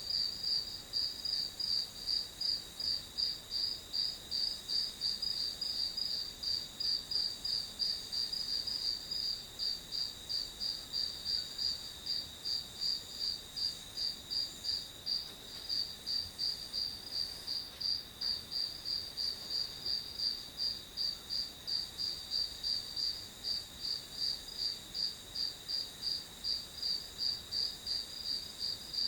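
Crickets chirping in a steady, even rhythm, about two to three chirps a second, over a continuous high trill.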